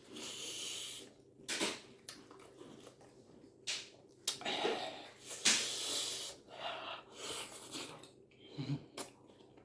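A person eating spaghetti close to the microphone: several breathy, hissing mouth noises, each up to about a second long, with a few short sharp mouth or cutlery clicks in between.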